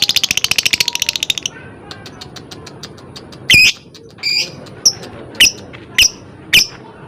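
Lovebird calling: a fast rattling chatter-trill, the kind keepers call ngekek, stops about a second and a half in. After a few soft ticks comes a series of sharp, high, shrill chirps about every half-second.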